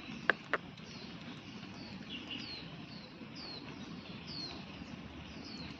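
A bird chirping: a series of short, high, falling chirps repeated every second or so. Two sharp clicks sound just after the start and are the loudest thing heard.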